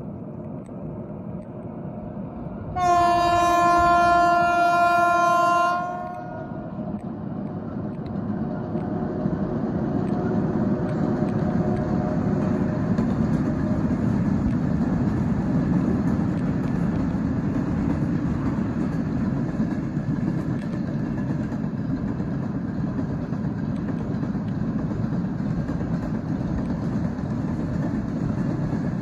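A single steady horn blast lasting about three seconds, followed by a rumbling vehicle noise that builds up and continues steadily.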